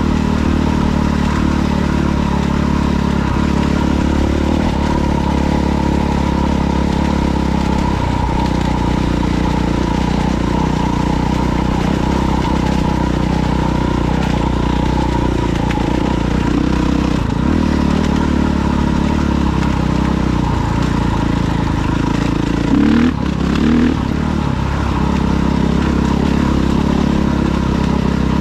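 Off-road vehicle engine running steadily while riding, with two quick rises in revs about three-quarters of the way through.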